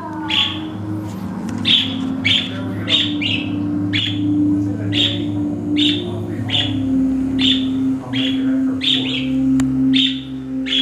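Caged pet birds chirping over and over, going nuts: a steady run of short, sharp chirps, one or two a second, over a steady low hum.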